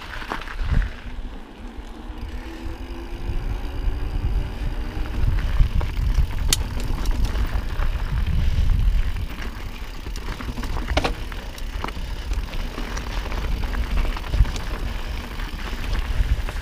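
Mountain bike riding over a dirt singletrack, picked up by a camera on the rider: a steady low rumble of wind on the microphone and tyres on dirt, with a few sharp clicks and rattles from the bike over bumps.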